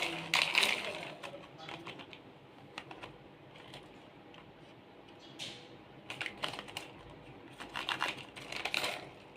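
Hard plastic toys clicking and tapping as they are handled, in irregular clusters of short sharp clicks.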